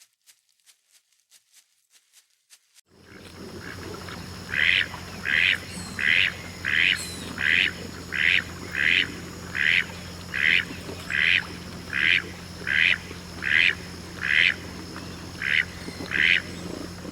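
A duck quacking in an even series of about fifteen quacks, a little more than one a second, over a low steady hum. Only faint regular ticks come before it, for the first few seconds.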